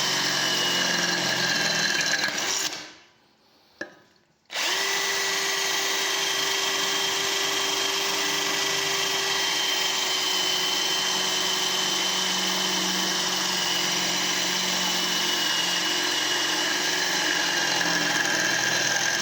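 Parkside PABS 20 Li G8 cordless drill running at a steady speed, its motor and gearbox whining at an even pitch. It winds down about three seconds in, a single click sounds in the short pause, then it starts again and runs steadily on.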